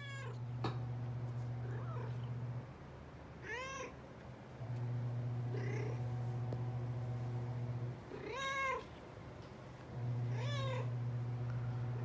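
An elderly white cat meowing four times, short rising-and-falling calls a couple of seconds apart, the second one fainter. Under them runs a steady low hum that comes and goes in spells of a few seconds.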